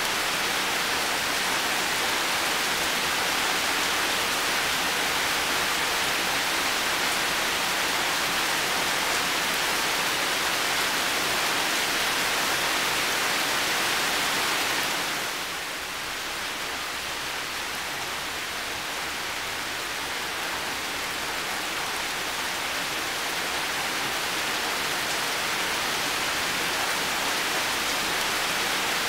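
Heavy rain falling steadily, a dense even hiss. About halfway through it turns a little softer and duller for a few seconds, then gradually builds back to full strength.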